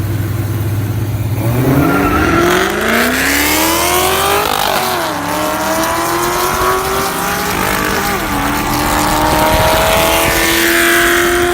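Dodge Hellcat's supercharged V8 settling from a low, steady note into hard acceleration about a second and a half in. The pitch climbs, drops sharply twice at gear changes near the middle and about two-thirds through, and climbs again after each.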